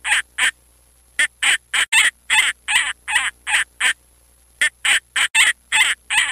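Falcon calling: a rapid series of short calls, about three a second, in runs broken by two brief pauses, the cackling 'kak-kak-kak' of a falcon.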